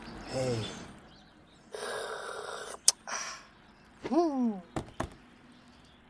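Cartoon soundtrack sound effects: a short burst of hiss lasting about a second, a few sharp clicks, and two brief voiced sounds, the second one falling in pitch.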